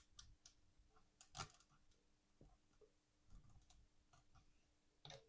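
Near silence with a few faint, scattered clicks and taps, the loudest about one and a half seconds in, over a faint steady hum.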